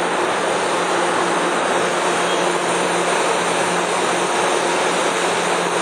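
Amtrak Pacific Surfliner train at the platform giving a steady, loud mechanical roar with a constant low hum underneath.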